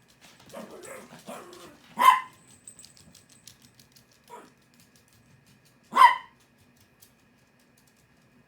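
Small dog barking: two sharp, loud barks about four seconds apart, with a fainter bark between them and quieter vocal sounds just before the first.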